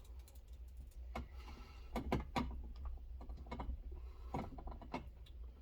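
Irregular clicks and knocks of metal parts being handled as a window regulator is lined up inside a car door, over a low steady hum.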